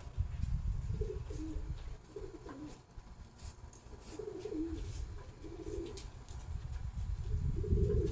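Domestic pigeon cooing, about five low, warbling coos spaced a second or two apart, over a steady low rumble.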